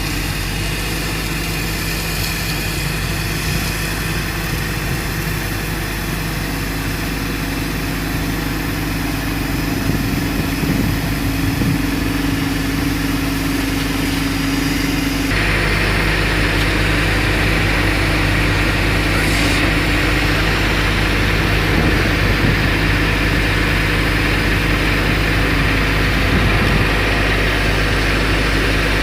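A fire engine's engine running steadily at a low idle. About halfway through, a louder, steady rushing noise comes in on top and stays.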